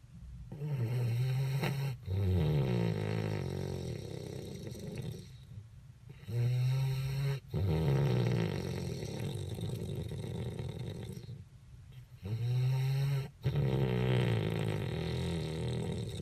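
American Bulldog puppy snoring in deep sleep: three long snoring breaths about six seconds apart. Each is a short loud snore, a brief break, then a longer snore that fades away.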